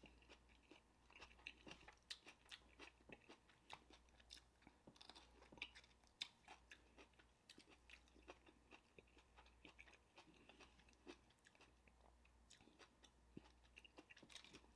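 Faint, close-up chewing and mouth clicks of someone eating a grilled-onion-wrapped beef and cheese burger, with soft crunches of onion.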